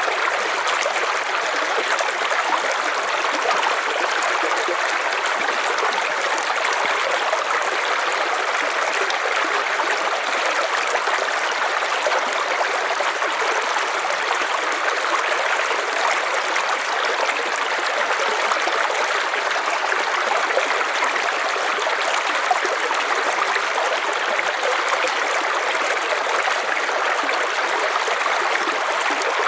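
River water flowing and rushing over stones in a steady, unbroken stream.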